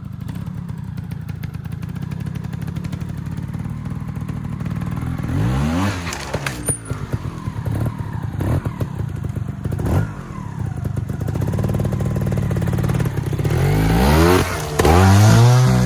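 Trials motorcycle engine running, revved up in quick rising blips about five seconds in and again, loudest, near the end, with a few sharp knocks in between.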